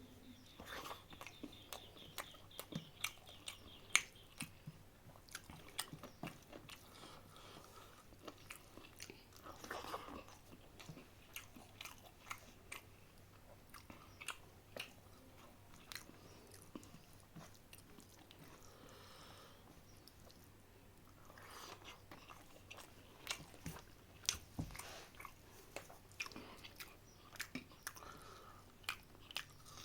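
A person chewing and biting chicken biryani with curry, close to the microphone: a string of small mouth clicks and crunches, with a quieter spell a little past the middle.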